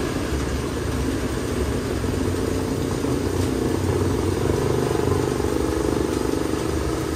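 Heavy rain falling steadily on a metal awning and the wet street, a dense even noise.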